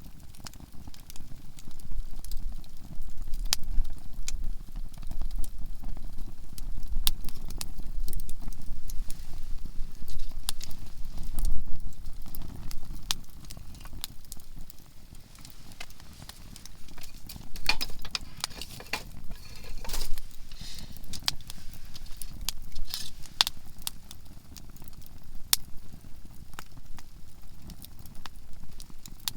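Softwood campfire crackling, with sharp pops and snaps scattered irregularly through a low rumble of the burning fire; the conifer logs pop often.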